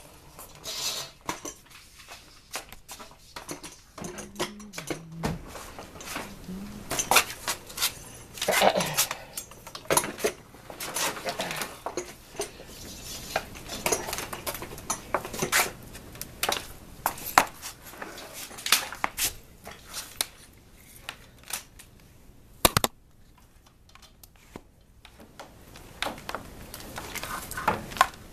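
Irregular clinks, taps and clatters of hard household objects being handled, with one sharp knock near the end.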